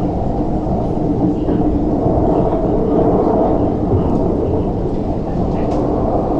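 Interior running noise of an MTR West Rail Line TML C-train (CRRC Changchun-built) travelling at speed: a steady low rumble of wheels on rail, swelling a little in the middle, heard from inside the passenger car.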